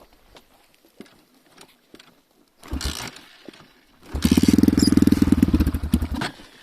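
Enduro motorcycle engine: a short burst almost three seconds in, then about two seconds of rapid, even firing pulses that cut off suddenly.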